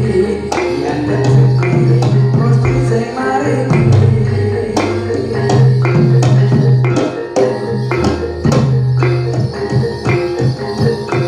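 Javanese jathilan dance music from a live percussion ensemble: hand drums and jingling, struck percussion over sustained low tones and a melodic line, playing continuously with frequent sharp strikes.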